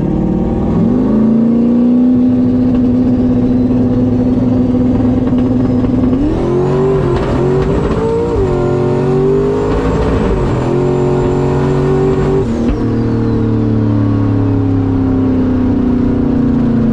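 A drag-racing street truck's engine running hard down the strip: the pitch climbs in the first second and holds steady, wavers for several seconds mid-run, then drops suddenly about 12 seconds in and stays lower.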